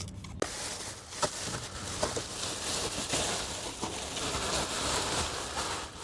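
Plastic masking sheet rustling and crinkling as it is handled, with a few sharp crackles, the first about half a second in.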